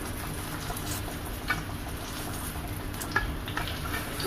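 Ground urad dal fritters for dahi bhalla sizzling as they shallow-fry in oil in a steel pan, with a few light clicks of metal spatulas against the pan as they are turned.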